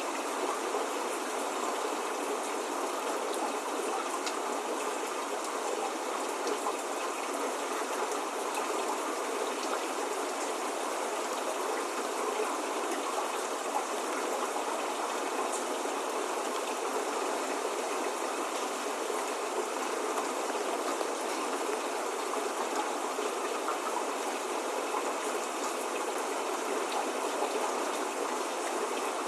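Steady spring rain falling: an even, unbroken hiss with faint scattered drop ticks and no thunder or birdsong.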